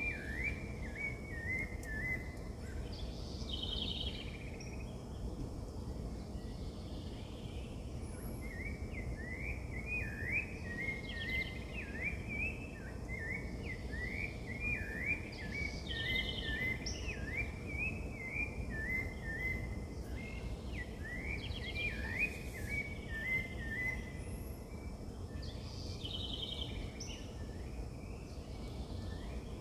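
Wild birds singing: long runs of quick, rising whistled notes, with a short higher trilled call that comes three times, over steady low background noise.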